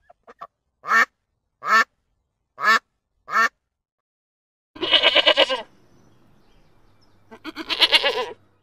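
Female mallard duck quacking: four short, loud quacks about a second apart. Then come two longer, wavering calls from sheep bleating, one near five seconds in and one near eight, over a faint steady hum.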